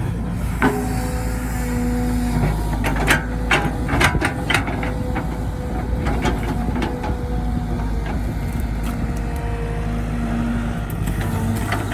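Heavy diesel machinery running steadily, with held whining tones that step in pitch now and then and scattered sharp clanks and knocks.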